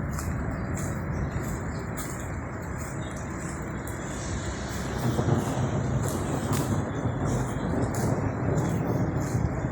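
Steady noise of rain in a town street, with a low rumble that grows louder about halfway through.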